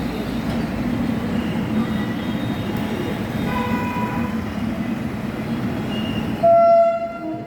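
Passenger train rolling in behind a WAP7 electric locomotive, with a steady low rumble of the moving coaches. A fainter held tone sounds about halfway through. A loud, short horn blast comes near the end.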